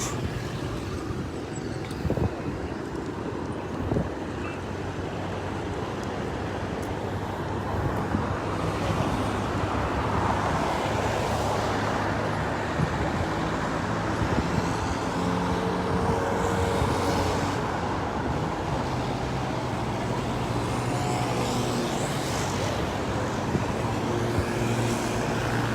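Road traffic noise: a steady din of vehicle engines and tyres, with several vehicles passing and swelling louder now and then.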